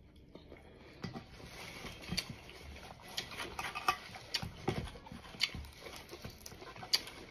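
Close-up mouth sounds of a person chewing a juicy pomelo segment: soft wet smacks with irregular sharp clicks every half second or so.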